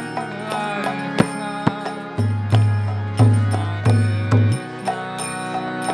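Devotional kirtan music: held chords and singing with drum strokes, including deep bass drum beats a couple of seconds in and sharp percussive hits throughout.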